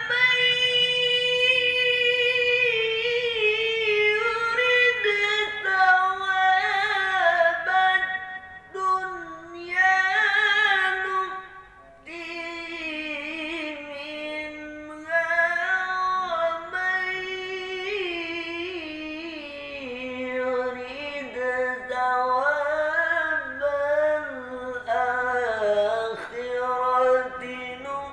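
A solo voice chanting Quranic recitation (tilawah) in long, ornamented melodic notes, each line held and wavering before a short breath pause, with the pitch dropping lower in the second half.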